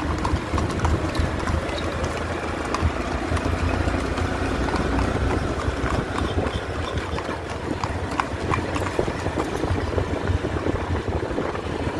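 Bajaj Platina's small single-cylinder motorcycle engine running steadily, with a fast even pulse, under rumbling wind noise on the microphone.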